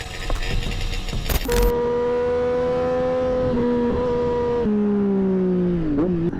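Motorcycle engine held at steady high revs, then the revs drop in a step and glide down near the end. It is preceded by about a second and a half of rushing wind and road noise.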